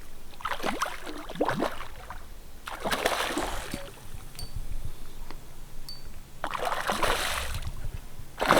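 Water splashing in several short bursts, a hooked fish thrashing at the surface as it is brought in.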